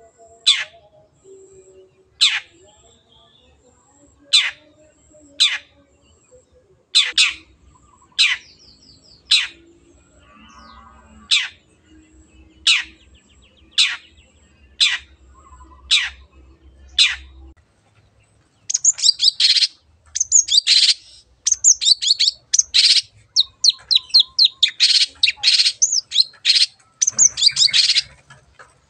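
Long-tailed shrike (cendet) giving sharp, steeply falling calls about once a second. About two-thirds of the way through it breaks into a fast, dense chattering song of many short notes.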